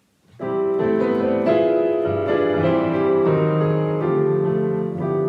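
Piano playing the slow introduction to a song: sustained chords starting about half a second in.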